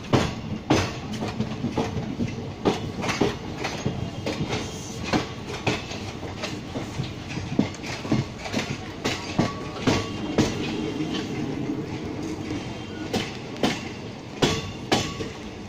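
Passenger train rolling along, its wheels clattering in irregular clicks over the rail joints over a steady rumble, heard from inside the coach at an open window.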